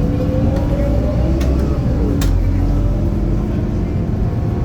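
Scania K230UB city bus's nine-litre five-cylinder diesel pulling away, with a whine that climbs and then levels off in the first second or two. A couple of sharp clicks or rattles come about a second and a half to two seconds in.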